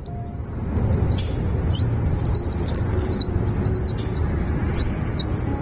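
Small birds chirping in a quick series of short, high, up-and-down notes starting a couple of seconds in, over a steady low rumble.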